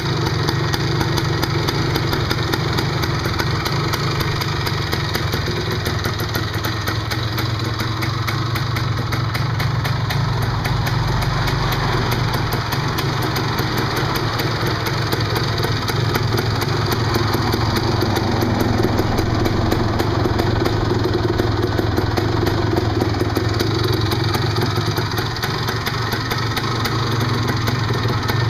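1978 Yamaha DT400E's single-cylinder two-stroke engine idling steadily, with a fast, even popping exhaust beat.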